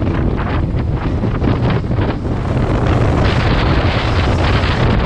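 Heavy wind buffeting on the microphone of a moving adventure motorcycle, a dense steady rush with the bike's running and road noise underneath.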